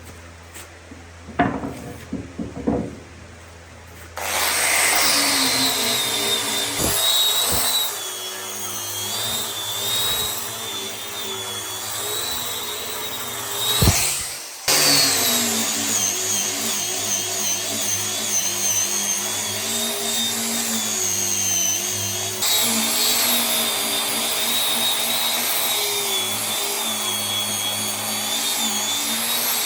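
A few light knocks, then an electric power tool starts about four seconds in and runs with a wavering pitch as it works the material. It cuts out briefly near the middle and starts again.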